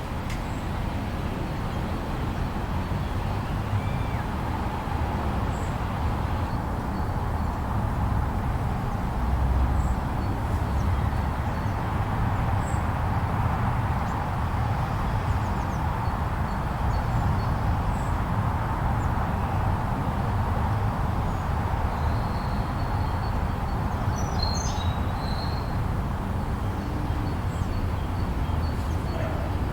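Blizzard wind blowing steadily, a constant rushing noise with a heavy low rumble. A few faint high chirps sound briefly near the end.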